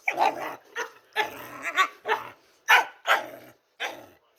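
A dog making a quick string of short barks and growls, about eight in a row.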